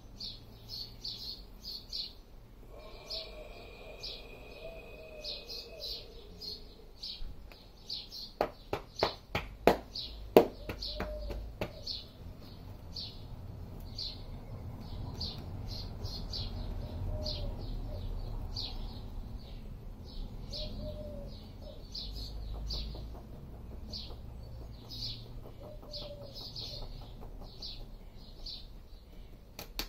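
A small bird chirping over and over, one short high chirp roughly every half second. About eight seconds in comes a quick run of about eight sharp knocks, the loudest sounds here.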